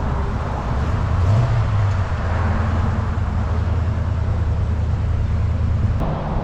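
A car engine running at a steady low speed with a deep even drone, rising briefly about a second in. The sound changes abruptly at about six seconds.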